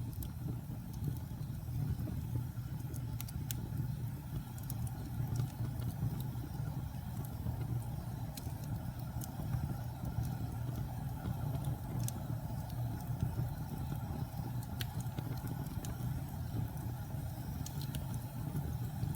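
Wood fire burning with a steady low rumble, crackling with scattered sharp pops and snaps of the burning wood every few seconds.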